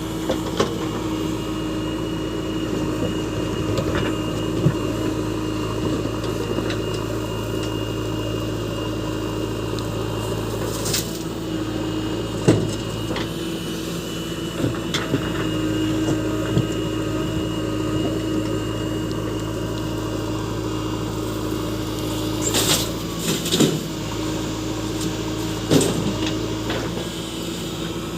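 JCB 3DX backhoe loader's diesel engine running steadily while it loads sand. A few short knocks and clatters come about 11 and 12 seconds in, around 23 seconds, and near 26 seconds.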